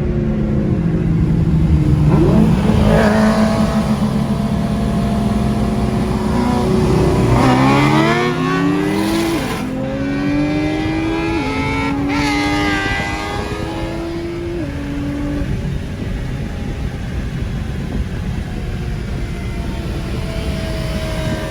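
Car engine pulling hard under acceleration, its pitch climbing and dropping back at two or three quick gear shifts about halfway through, then running steadier at speed.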